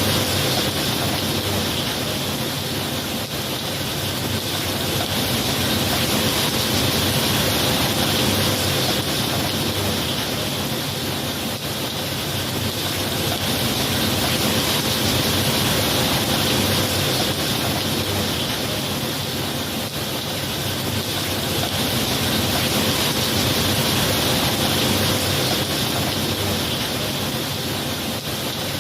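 Steady heavy rain, an even hiss that swells and eases slowly every several seconds, with no distinct thunderclap.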